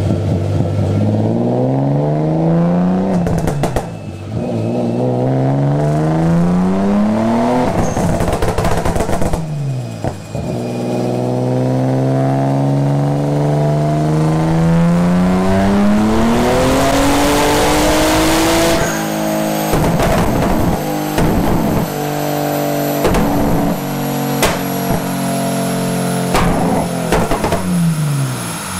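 Twin-turbocharged Infiniti G35's V6 revving on a chassis dyno through its single-exit exhaust. Two short climbs in revs are followed by one long pull of about eight seconds. The engine then holds lower revs with a string of sharp pops and cracks before the revs fall near the end.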